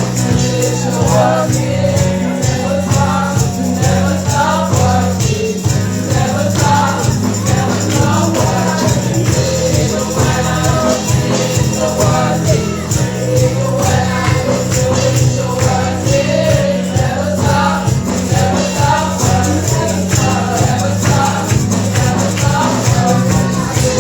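Gospel praise music: voices singing a melody over a steady bass line, with a tambourine shaking throughout.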